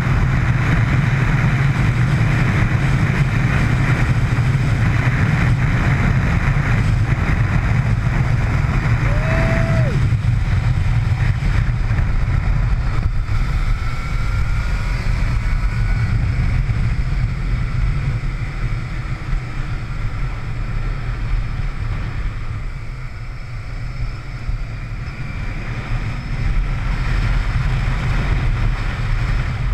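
Onboard sound of a motorcycle being ridden at speed: a steady, heavy rush with the engine note faintly rising and falling beneath it, easing somewhat past the middle.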